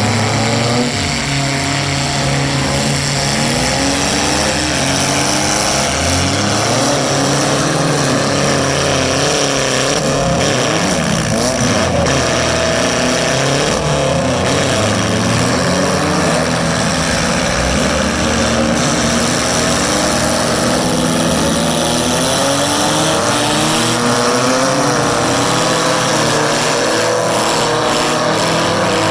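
Several four-cylinder demolition derby car engines revving at once, their pitches rising and falling over one another without a break.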